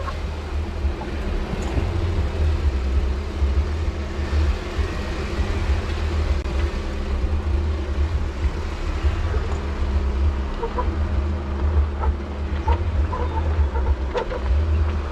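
Off-road vehicle engine running, a steady low rumble with a faint hum, without revving up or down.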